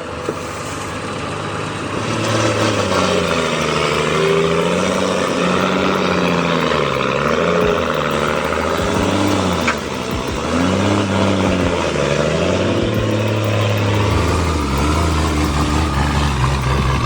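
A vehicle engine running, its pitch rising and falling repeatedly as it revs up and down. There is one sharp click about halfway through.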